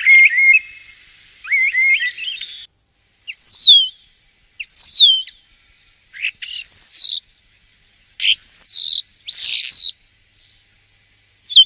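Common starling singing. It opens with a warbling phrase, then gives two clear whistles sliding down in pitch, then three rougher, buzzier notes about a second apart, with short pauses between phrases.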